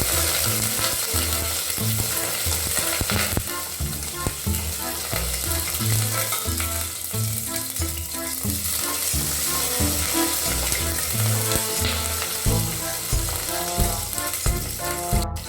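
Ginger and green chillies sizzling in hot oil in a pan as they are sautéed and stirred.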